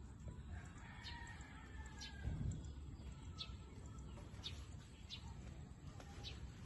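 Faint outdoor background: scattered short, high bird chirps every second or so over a low steady rumble.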